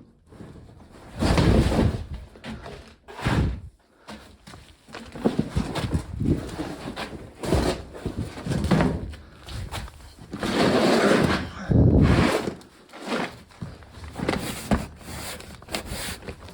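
A string of irregular thuds, knocks and rustles from someone handling things while working on a car.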